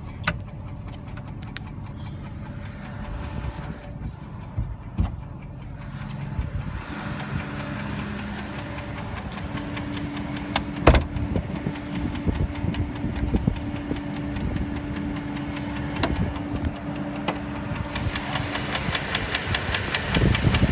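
Dodge Durango's 4.7-litre V8 idling with a light, barely audible tick that the owner cannot identify. The engine sound grows louder near the end.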